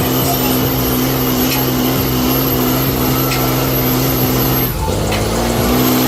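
Mud truck engine held at high revs, its pitch steady, dropping off briefly near the end and then climbing back up.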